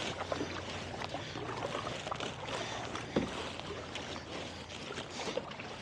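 Tandem kayak being paddled on a lake: paddle blades dipping and splashing with water lapping on the hull, with one sharper short sound about three seconds in.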